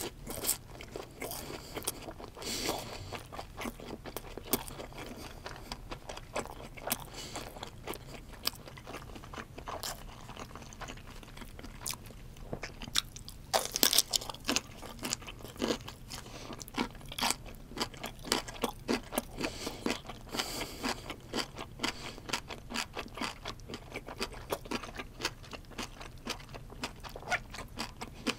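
Close-miked eating sounds: a mouthful of crab fried rice wrapped in roasted seaweed being chewed, with a steady run of crunchy, crackling clicks. About halfway through comes a louder crunch as a new bite is taken.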